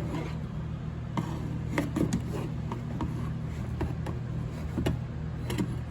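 A few short, light knocks and rubs, like parts or tools being handled, over a steady low hum.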